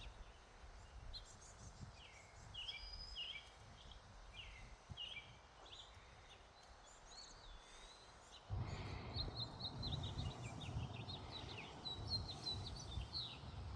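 Small songbirds chirping and twittering in a quick run of short notes. About two-thirds of the way through, a low rumbling noise comes in suddenly and stays under the birdsong.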